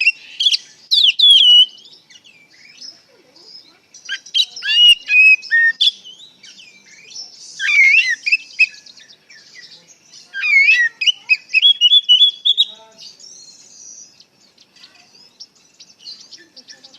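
Oriental magpie-robin (kacer) singing loud, clear whistled phrases with rapid rising and falling notes, in four bouts separated by short pauses; it fades to faint scattered notes near the end.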